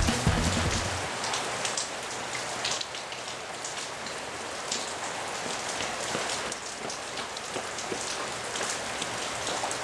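Steady rain falling, with scattered individual drops ticking through the even hiss. Music fades out in the first second or so.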